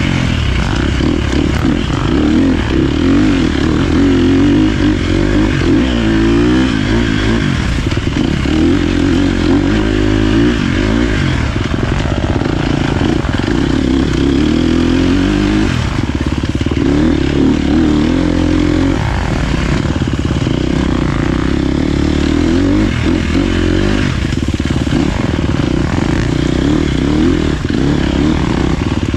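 Dirt bike engine running under way, its note rising and falling continuously as the throttle opens and closes.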